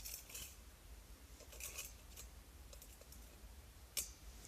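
Faint scattered clicks and scrapes of small objects being handled, with one sharper click about four seconds in.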